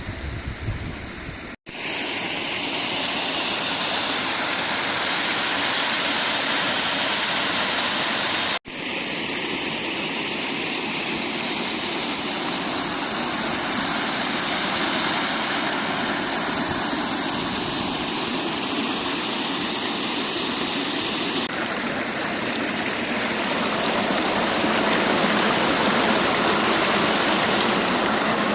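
Steady rush of water from a stream and small waterfall. A low wind rumble on the microphone comes in the first second or so, and the sound cuts out for an instant twice.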